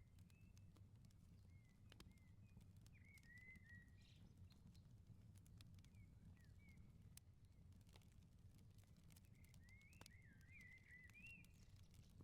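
Faint wood fire crackling in an outdoor firepit, with scattered sharp pops over a low steady rumble. A small bird chirps in short warbling phrases, a few seconds in and again near the end.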